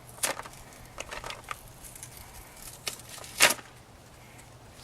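Light handling sounds, a few small clicks and rustles, with one louder rustle or scrape about three and a half seconds in, as replacement headlight bulbs and their packaging are picked up.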